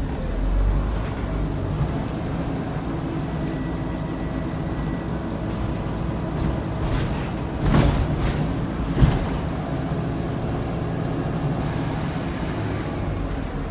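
Scania N94UD bus's DC09 nine-litre engine running steadily, with a loud rattle about eight seconds in and a sharp knock a second later. A short hiss of air comes near the end.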